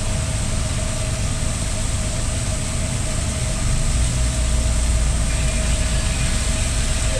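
Steady mechanical hum and rumble from a running motor, with one constant tone; the low rumble swells louder about four seconds in.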